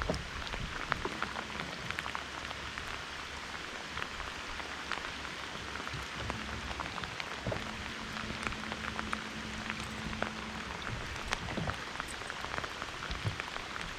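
Steady rain falling, with many small raindrop ticks scattered over a constant hiss. A faint low hum comes in about six seconds in and fades a few seconds later.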